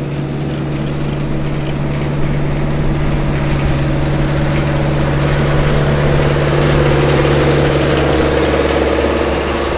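Tractor engine running steadily under load, with a mid-pitched whine that swells about six seconds in and eases off near the end.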